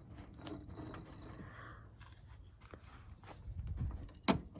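Faint handling noises: low rustling and scraping, with a few light clicks and two sharp clicks near the end.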